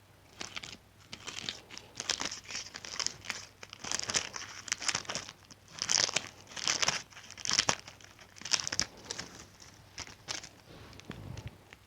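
Scissors cutting through material: a run of crisp snips, about one or two a second, with the strokes thinning out near the end.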